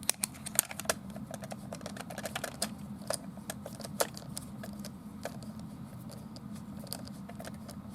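Small irregular clicks and taps of batteries being fitted into a toy tank's battery compartment and the plastic toy being handled, with one sharper click about four seconds in.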